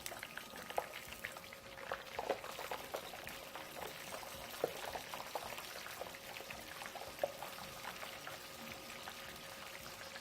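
Flour-dusted chicken pieces frying in medium-hot oil: a gentle steady sizzle with scattered small pops and crackles.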